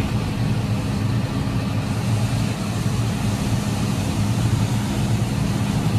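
Tractor engine pulling a grain cart at steady speed, a low even drone, while the combine unloads into the cart on the move.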